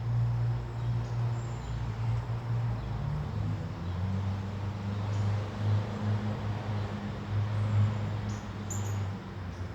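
A steady low motor hum that shifts slightly lower in pitch about three seconds in, with a few brief, faint high bird chirps, the clearest near the end.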